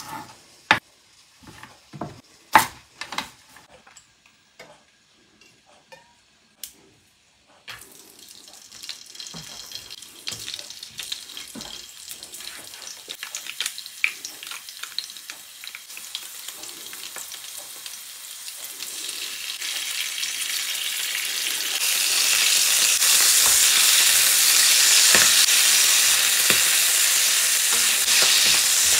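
A kitchen knife knocks against a wooden cutting board several times as garlic cloves are cut. Then garlic and anchovies start to sizzle in olive oil in an aluminium wok. The sizzle swells steadily and is loud by about three-quarters of the way through, with a wooden spoon stirring.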